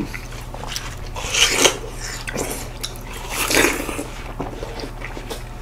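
People biting into and chewing juicy seedless watermelon, wet crunching of the flesh in two louder bouts, about a second and a half in and again about three and a half seconds in, with small clicks between.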